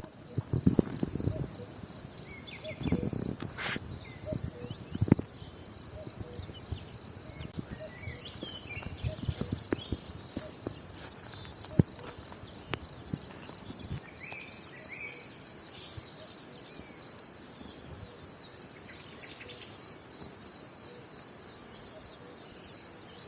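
Insects, crickets or similar, trilling steadily on one high pitch, with the pulsing growing more distinct about halfway through. Low knocks and thumps come and go in the first half, and there are a few short chirps.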